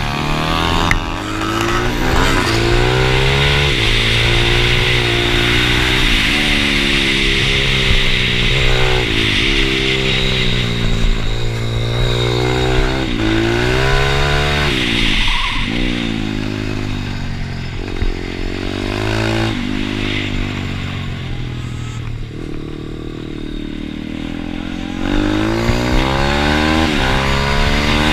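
Pit bike's small single-cylinder engine revving up and dropping back over and over, its pitch rising and falling every second or two. It runs a little quieter for a few seconds past the middle, then picks up again near the end.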